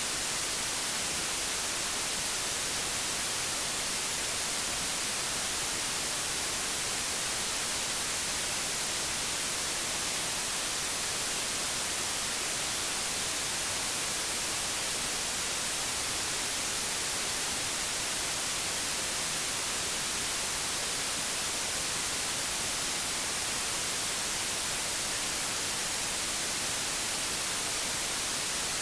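Steady hiss of analogue television static, even and unbroken, brightest in the high end.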